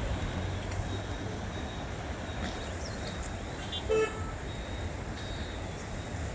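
Steady road and traffic noise, with one short vehicle horn toot about four seconds in.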